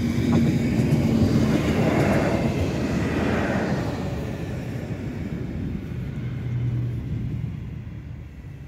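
Short passenger train passing over a level crossing: a rumble of wheels and motor that is loudest in the first few seconds and then fades as the train moves away.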